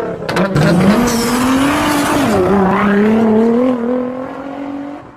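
Car engine accelerating hard. Its pitch climbs, drops at a gear change about two seconds in, then climbs again and fades out. A few sharp cracks come just before the run-up.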